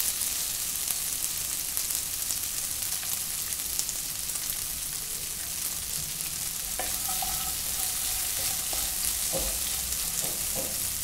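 Chopped cluster beans frying in hot oil in a wok, a steady sizzling hiss. Near the end a wooden spatula stirs them, with a few short scraping strokes against the pan.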